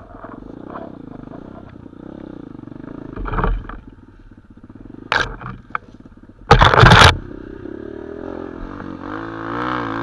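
Small four-stroke motorcycle engine running with an unsteady, wavering pitch, broken by short loud bursts of noise, the loudest about six and a half seconds in. Near the end the engine revs up.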